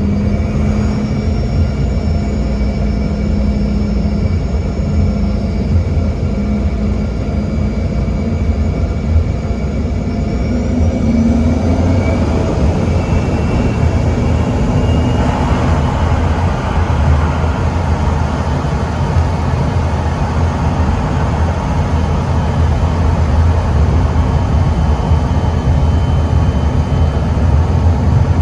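Inside the cabin, the Embraer ERJ-145's rear-mounted Rolls-Royce AE3007 turbofans: a steady low hum with a high whine. About twelve seconds in, the whine rises in pitch and the engine noise grows fuller and louder as the engines spool up for takeoff thrust, then holds steady.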